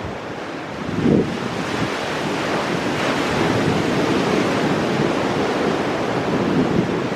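Ocean surf breaking on rocks: a steady wash of water noise that swells about a second in and stays loud, with wind buffeting the microphone.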